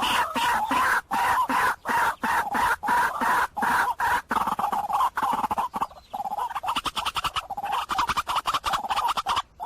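White-breasted waterhen calling: a fast run of repeated croaking notes, about three to four a second, the loud 'ruak-ruak' series used as a decoy call to lure waterhens. It pauses briefly about six seconds in and cuts off suddenly near the end.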